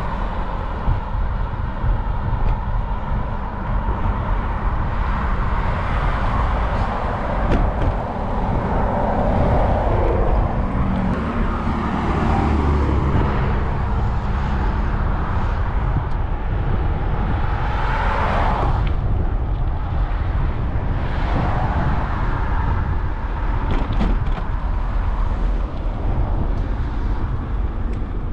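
Steady low rumble of wind on the microphone while cycling along a road, with motor traffic passing; several cars go by, the loudest about eighteen seconds in.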